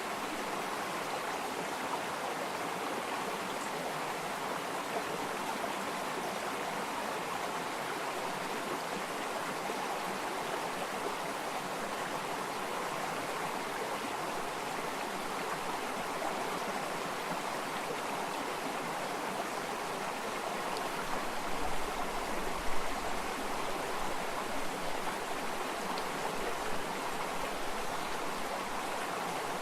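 Flowing water running steadily, a stream's continuous rush and babble. A brief low rumble about three-quarters of the way through.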